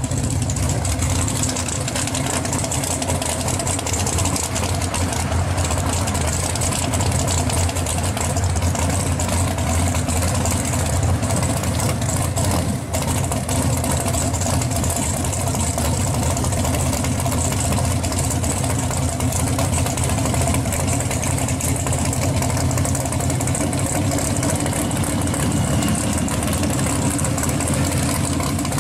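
A 1969 Chevelle pro street car's engine running at a steady idle throughout, loud and unbroken.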